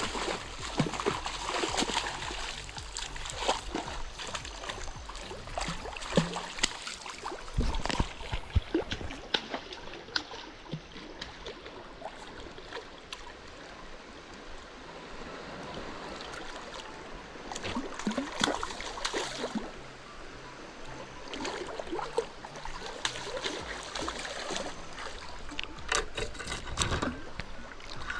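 River water flowing and splashing, with many short, sharp splashes and knocks throughout.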